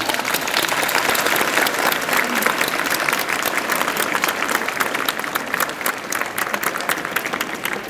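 Audience applauding after the closing thanks, many hands clapping at once. The applause slowly thins out and fades toward the end.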